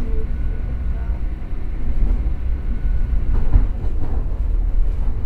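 Passenger train running along the track, heard from inside the carriage: a steady low rumble with one louder thump about three and a half seconds in.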